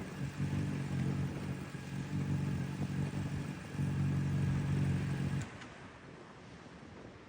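Airplane engine drone, a low hum that swells and fades every second or so, cutting off abruptly about five and a half seconds in and leaving a fainter steady hiss.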